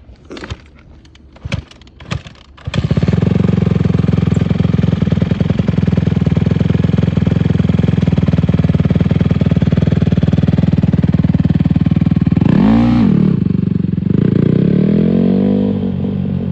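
Honda CRF150R dirt bike's single-cylinder four-stroke engine running loud and close, after a few sharp knocks. Near the end it revs quickly up and back down, then rises and falls again more slowly.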